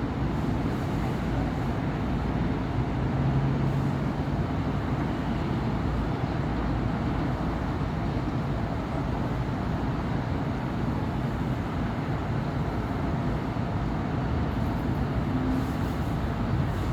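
Steady city road traffic: the continuous rumble of engines and tyres from passing cars and buses, with a low engine hum standing out briefly about three seconds in.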